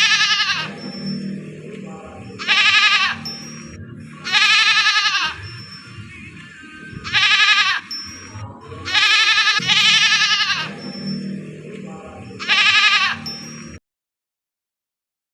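Goat bleating repeatedly, about seven loud bleats every two seconds or so, over background music.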